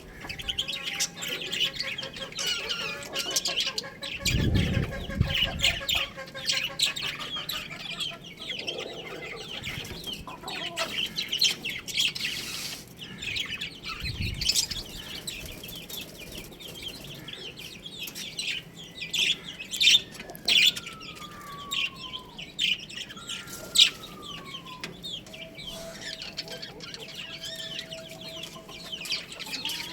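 Chicks chirping again and again in short high peeps, a dense chorus of many birds, with low thumps about four seconds in and again near fourteen seconds.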